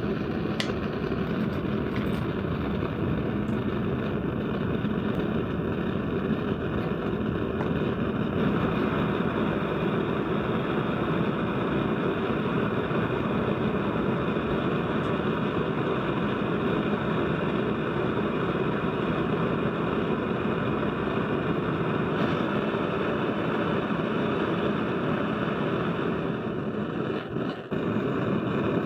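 A power tool's electric motor running steadily, with a short dip near the end.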